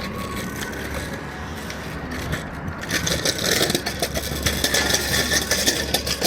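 Idling vehicle engine giving a steady low hum, overlaid by crackling, scraping noise that grows louder about halfway through.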